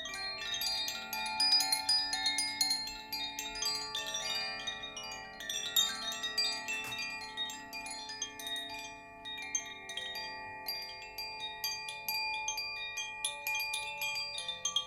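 Chimes being played with many quick, irregular strikes, their bright ringing tones overlapping and sustaining into one another.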